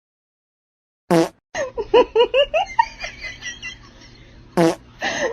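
A short fart-like sound falling in pitch, heard twice about three and a half seconds apart, with laughter between them. The first second is silent.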